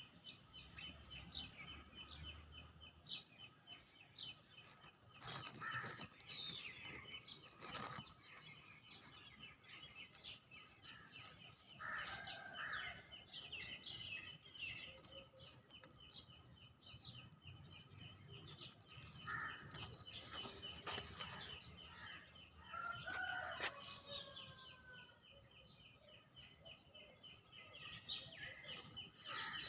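Birds chirping and calling, faint, over a fast, evenly repeated high note, with a few sharp clicks in between.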